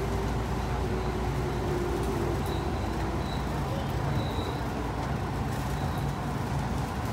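Steady running noise heard inside a JR West 221 series electric train car: a low rumble of wheels on track and bogie noise. A faint hum fades out about two and a half seconds in, as the train approaches a station.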